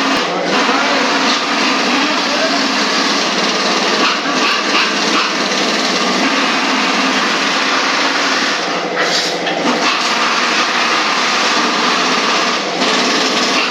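A small engine running steadily, with faint voices behind it.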